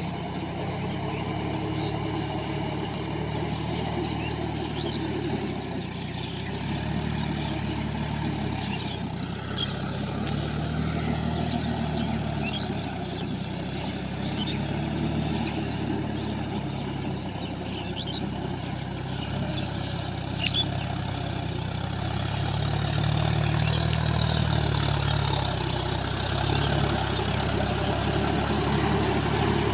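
Large farm tractor diesel engine running under load, its note swelling and easing as the pull goes on, louder for the last third, with a few faint clicks.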